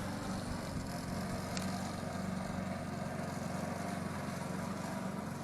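Gasoline push lawn mower's small engine running steadily, an even low hum.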